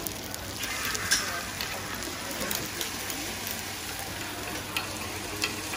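Oil sizzling steadily as round batter cakes fry in a cast-iron pan with many round hollows, with a few sharp clicks, likely a metal spoon knocking the pan.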